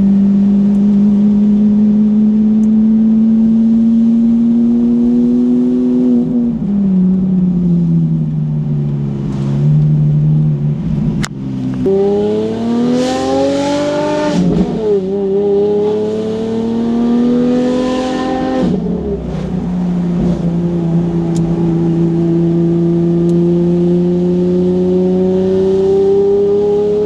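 Car engine accelerating through the gears: its pitch climbs and then falls back at each shift, three or four times, with a steady climb near the end.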